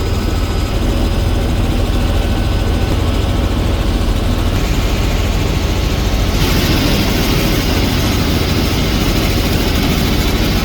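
Helicopter in flight: steady, loud rotor and engine noise with a fast, even beat. A brighter hiss comes in about six and a half seconds in.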